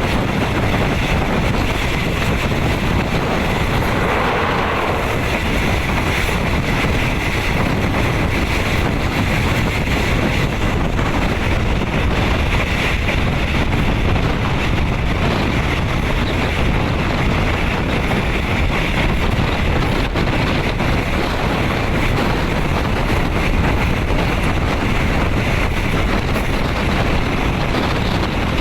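Steady rush of wind and rolling wheel noise inside a moving non-air-conditioned third-class railway carriage, with wind buffeting the microphone.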